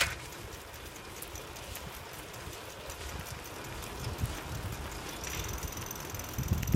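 Old bicycle rolling along a forest track strewn with needles and leaves, with many small scattered clicks and rattles from the bike and wind rumbling on the microphone; a sharp click at the start and another near the end.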